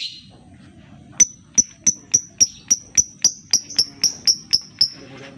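Lovebird giving its 'ngetik' ticking call: a run of about fourteen sharp, high ticks at roughly four a second, starting about a second in and stopping near the end.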